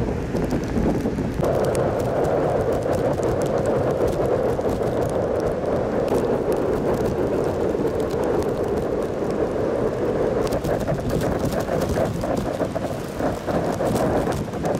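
Steady rushing noise of strong wind and sea surf, with no breaks.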